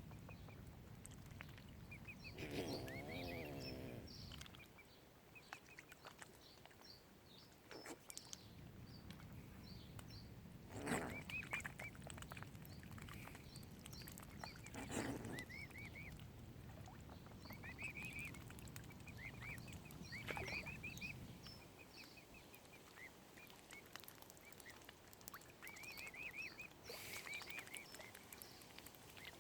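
Mute swan cygnets peeping: short, high chirps in scattered runs. A lower, wavering call comes about three seconds in, and two brief louder sounds come near the middle.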